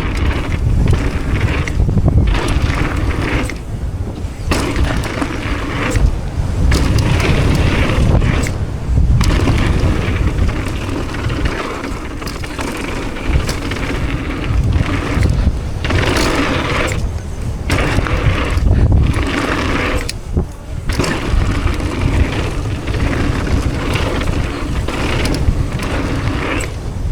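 Mountain bike riding fast down a rough dirt trail: continuous tyre roar, rattling of the bike and buffeting on the camera microphone, broken by a few brief lulls.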